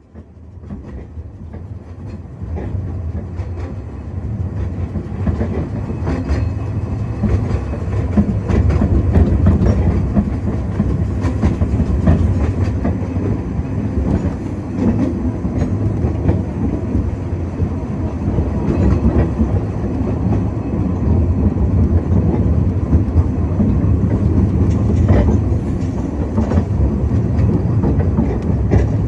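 Narrow-gauge train of the Groudle Glen Railway, hauled by the steam locomotive Sea Lion, running along the line. A heavy rumble builds over the first several seconds as it gets under way, then holds, with wheels clicking over the rail joints.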